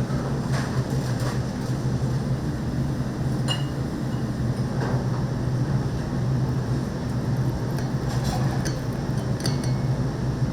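Restaurant kitchen ambience: a steady low hum with a few light clicks and clinks.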